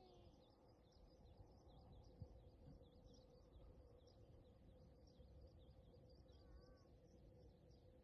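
Faint birds chirping: quick, repeated short high notes, with a steady low hum and a low rumble beneath.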